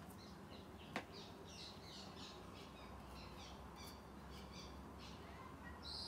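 Faint small birds chirping in quick, short, high notes, over and over, with one sharp click about a second in.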